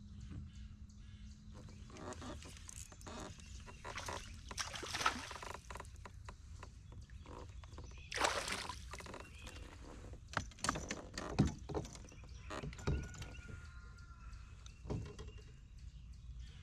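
Irregular knocks, clatter and water splashes around a fishing kayak, with several sharp knocks in the second half.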